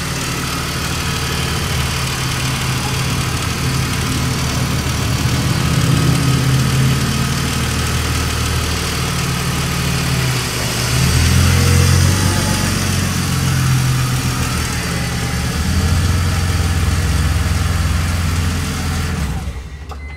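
BMW E46's inline-six engine idling while air is bled from a newly installed power steering system; its speed shifts a few times, and it is switched off near the end.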